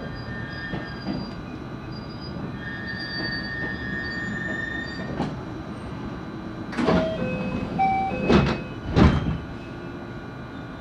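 JR West 223 series electric train heard from inside the car, running with a steady rumble and faint inverter tones. About seven to nine seconds in, the wheels give a cluster of loud clunks over rail joints, with short squeals.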